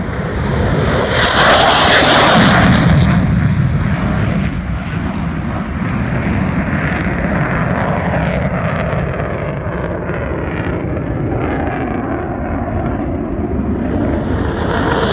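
Two F-15 fighter jets climbing away, their jet engines loud with a rushing, crackling roar. The roar is loudest about two seconds in, eases off, then builds again near the end.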